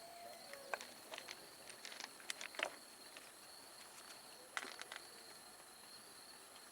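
Quiet outdoor ambience with a steady high insect drone, broken by a few faint clicks and knocks, most of them between about two and three seconds in and one more near five seconds.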